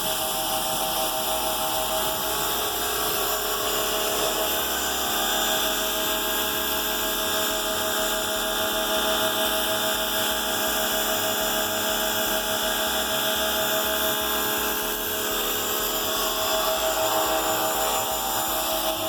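Pressure washer running steadily, a constant spray hiss with a steady motor whine, starting abruptly.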